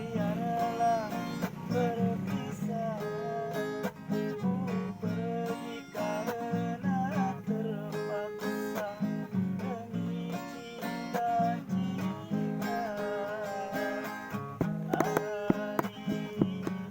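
Acoustic guitar music: strummed chords under a melody line whose notes bend and glide.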